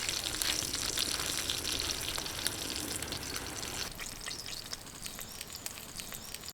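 Meat sizzling on an iron griddle plate over a wood fire, with scattered small pops and crackles. The sound fades gradually toward the end.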